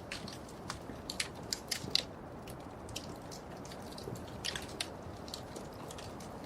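Wood fire crackling: irregular sharp pops and snaps over a low steady rush of burning, the loudest pop about two seconds in.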